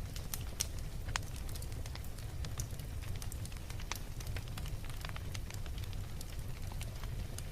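Wood fire burning steadily with a low rumble and frequent irregular crackles and pops.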